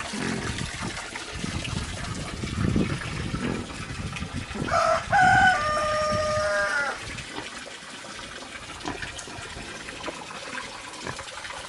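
A rooster crows once, about five seconds in: a single call of about two seconds that ends on a falling note. Water running and splashing into a trough from a hose lies underneath.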